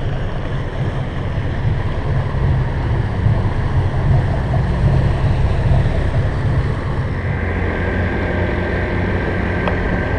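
Catamaran's inboard engines running at low speed while manoeuvring, a steady low hum, with a thin higher tone joining about seven seconds in.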